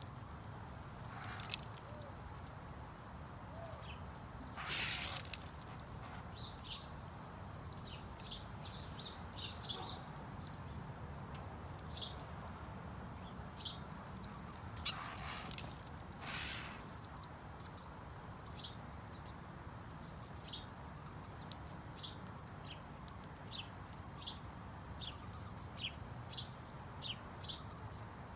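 Many sharp, short bird chip calls, each with a quick falling tail, coming more often toward the end, over a steady high-pitched drone of insects. Two brief rushes of noise break in, about five seconds in and again about fifteen seconds in.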